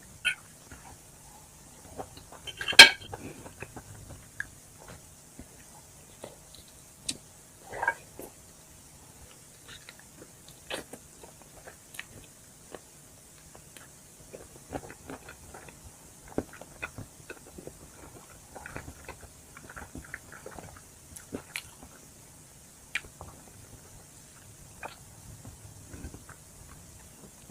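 Close-up chewing and biting of chicken wings: scattered wet smacks and small crunches, with one loud sharp crunch about three seconds in and another near eight seconds.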